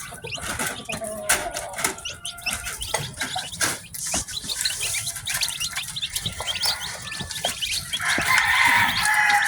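Many newly hatched chicks peeping continuously in short, high chirps, with scattered small clicks and scuffles among them. A louder, lower call rises over the peeping about eight seconds in.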